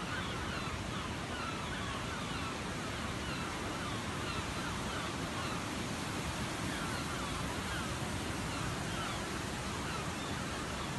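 Steady rush of a waterfall, with many short, falling bird calls over it.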